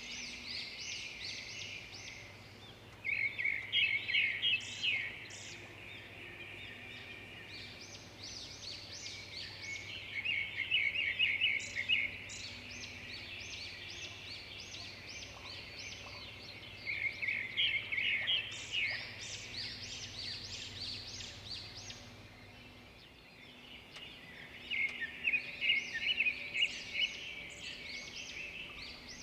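Songbirds singing: one bird repeats a fast, chattering song phrase about every seven seconds, with other birds chirping in between.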